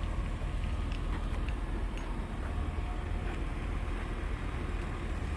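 Nissan Maxima's 3.5-litre V6 idling, a steady low rumble heard from outside the car, with a few faint ticks.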